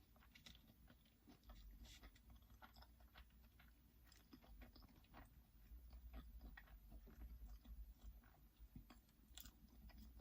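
Faint chewing of McDonald's food: soft, irregular mouth clicks and smacks as someone eats.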